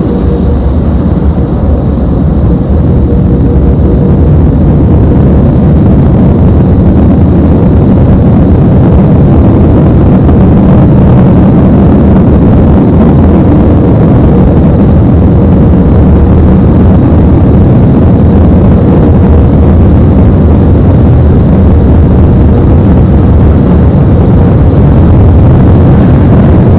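Air dryer blowers of an automatic tunnel car wash, heard from inside the car: a loud, steady, deep rushing with a faint hum that does not let up.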